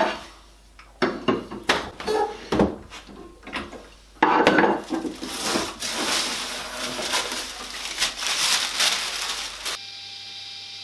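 Workshop handling noise: a series of sharp wooden and metallic knocks and clanks, then, about four seconds in, several seconds of rough scraping and rubbing. This stops suddenly and a quieter steady hum takes over near the end.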